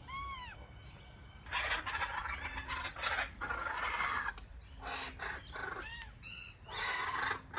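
Wild birds calling: several harsh, rasping squawks of about a second each, with short rising-and-falling chirps between them.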